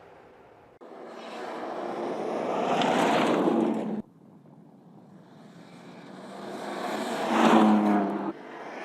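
BMW M2 Competition's twin-turbo straight-six engine driving by at speed in short edited clips, each growing louder as the car approaches and then cut off suddenly, about a second in, about four seconds in and near the end.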